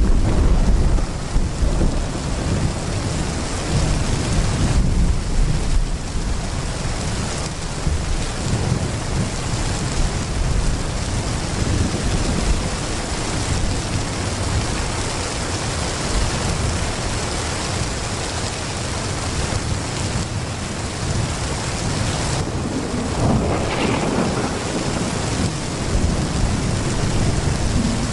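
Heavy rain pouring steadily, with a deep rolling rumble of thunder underneath and a brief swell about 23 seconds in.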